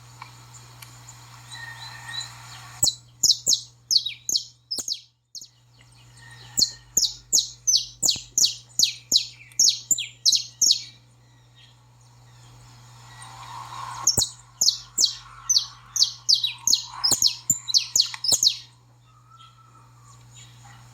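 Saffron finch chatter: rapid strings of sharp, high, downward-sweeping chirps, about four a second, in three bursts with short pauses between. A steady low hum runs underneath.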